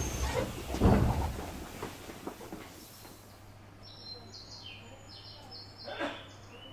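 Sounds aboard an Odakyu 3000 series train standing at a station: a heavy thud about a second in, then a steady low hum with a run of short high chirps, and a knock near the end.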